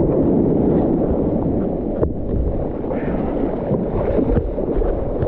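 Steady rushing of wind on the microphone mixed with ocean surf, with a sharp click about two seconds in.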